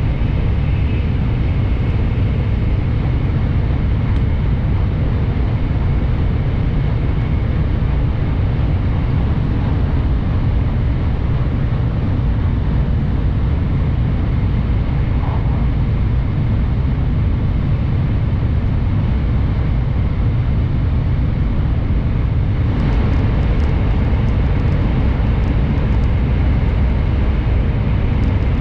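Cabin noise of a Shinkansen train running at speed: a steady low rumble with a rushing sound above it. From about 23 seconds in the rush grows brighter and slightly louder, with faint clicks, as the train enters a tunnel.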